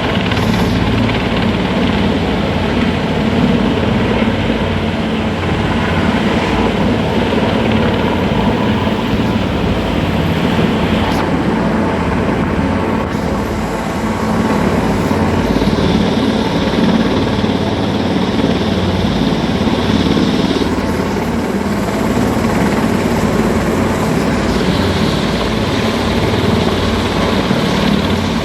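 Helicopter running steadily and loudly, its rotor chop and engine noise continuous. A higher hiss comes in for a few seconds past the middle and again near the end.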